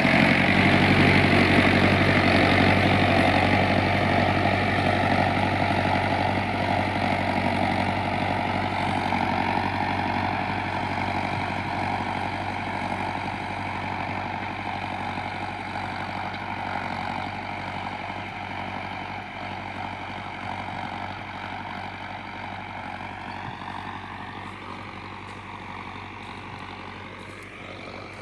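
Mahindra Arjun tractor's diesel engine running steadily, growing gradually fainter over the whole stretch.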